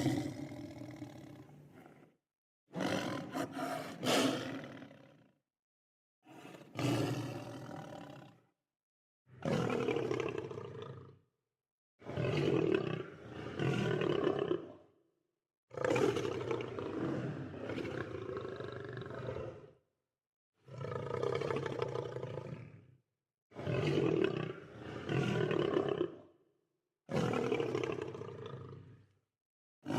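Lion roaring repeatedly: a series of about nine deep roars, each two to four seconds long, each broken off by a sudden gap of silence.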